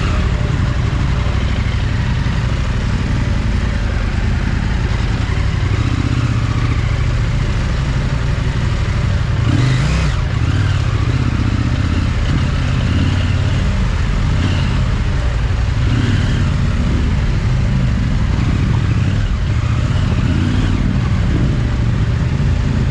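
Large adventure motorcycle running while being ridden off-road, a steady engine and ride rumble, with one brief louder clatter about ten seconds in.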